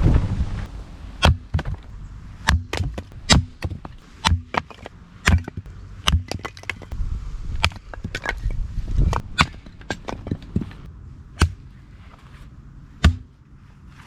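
Chopping: a run of irregular sharp knocks and cracks, one or two a second, with some strikes louder than others.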